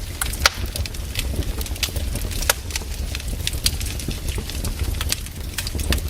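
Wood fire crackling: irregular sharp snaps and pops of burning firewood over a low steady rumble.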